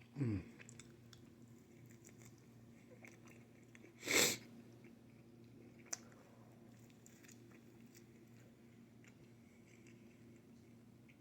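A person chewing pizza, with faint wet mouth clicks. There is a brief falling voiced hum at the start and a short, loud rush of breath about four seconds in, over a steady low hum.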